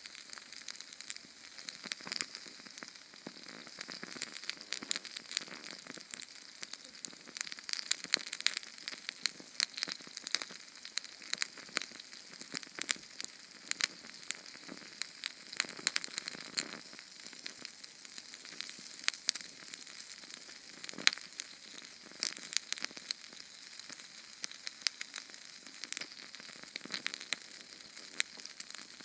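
Small Sterno canned-fuel flame burning: a steady sizzling hiss with dense, irregular sharp crackles and pops.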